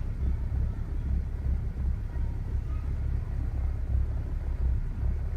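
BMW E60 535i's twin-turbo straight-six engine idling roughly, with a low, uneven, lumpy rumble.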